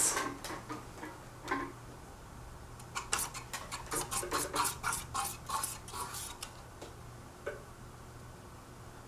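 Handling noise while test gear is rearranged: a quick run of small clicks, rattles and rubbing over a few seconds, with a few single clicks before and after, over a faint steady low hum.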